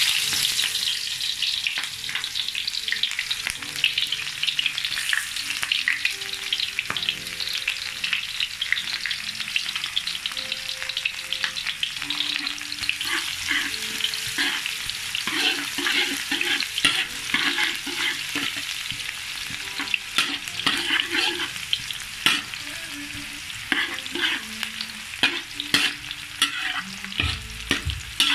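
Sliced shallots, garlic and ginger sizzling and crackling in hot oil in a wok, being sautéed as the base for fried rice. A spatula stirs them, with short scraping clicks against the pan.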